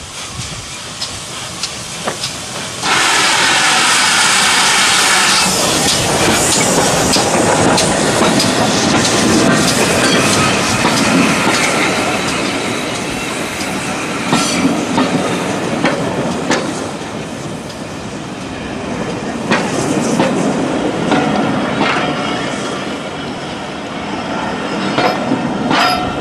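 Heritage railway train passing close by, with its wheels clicking over the rail joints under a steady rumble. A loud hiss starts suddenly about three seconds in and stops a couple of seconds later.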